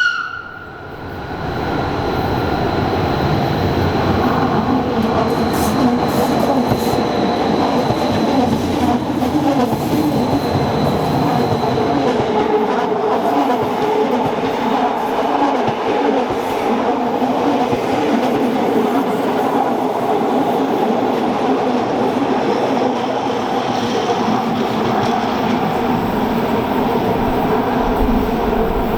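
Rhaetian Railway train running, a steady rolling rumble of wheels on the rails.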